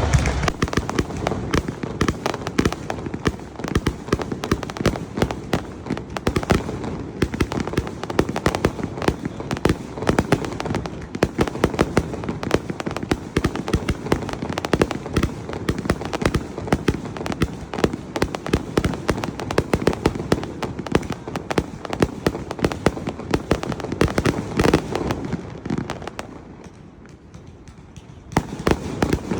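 Aerial fireworks display: a dense, continuous barrage of bangs and crackles, easing off briefly about three seconds before the end, then starting up again.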